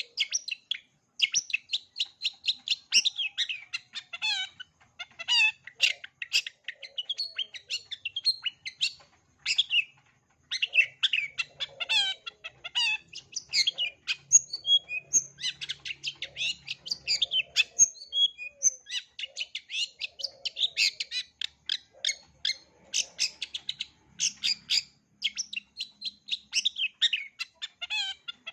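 Long-tailed shrike (cendet) singing a fast, varied run of chirps and short whistled notes, its song filled with mimicked calls of other birds, pausing briefly twice.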